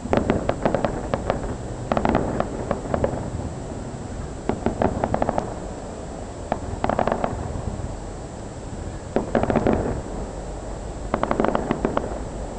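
Fireworks going off in rapid crackling clusters, about six volleys of quick sharp pops roughly every two seconds.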